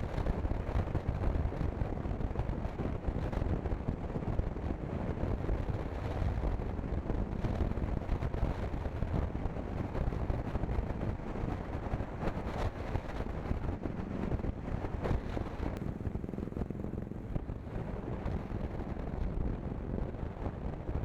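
Wind buffeting the helmet or action-camera microphone of a moving motorcycle, a KTM Duke, with the engine running steadily underneath.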